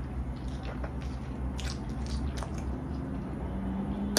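A person biting into a burger and chewing it close to the microphone: soft squishy bites and scattered wet mouth clicks over a steady low hum, with a sharp click at the very end.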